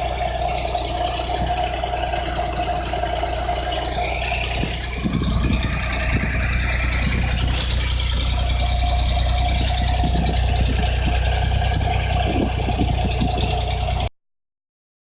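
Suzuki Jimny JB23's 660 cc three-cylinder turbo engine idling steadily through its newly fitted silencer-equipped front pipe, with a constant hum. It gets slightly louder from about five seconds in.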